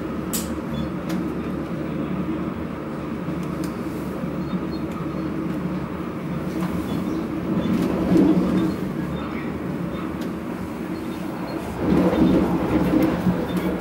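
Steady running rumble inside an electric commuter train carriage travelling at speed. It swells louder for a moment about eight seconds in and again near the end.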